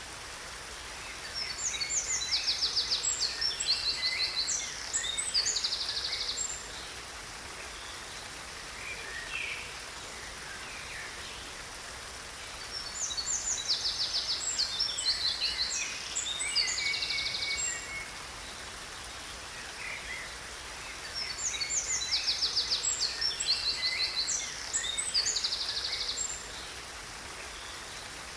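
A songbird sings three long bouts of rapid trills and chirps, each about five seconds and almost identical, over a steady hiss of falling water from a waterfall.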